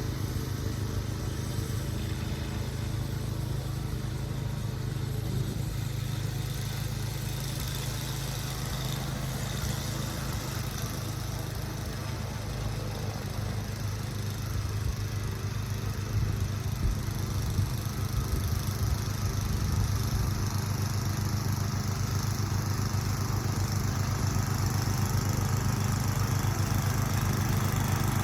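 An engine running steadily with a low hum, growing louder from about halfway through.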